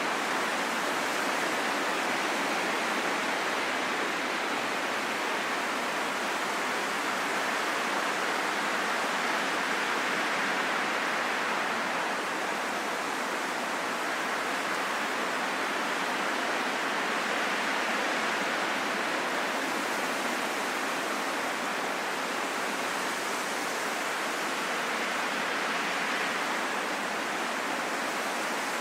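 Steady wind noise, a smooth rushing hiss that swells and eases gently every several seconds.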